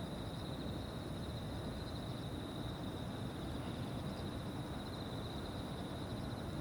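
Insects trilling steadily in a dense, high, finely pulsing chorus, with a fainter, higher-pitched trill above it, over a low steady rumble.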